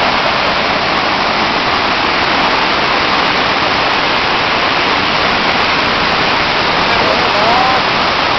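Steady, loud rush of a large 68-metre waterfall's falling water. A faint voice rises briefly above it near the end.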